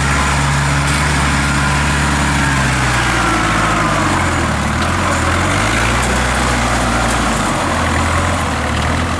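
Diesel engine of a tracked rice carrier running while hauling a load of harvested rice. Its speed dips about four seconds in and picks up again near the end, with a faint falling whine above the engine.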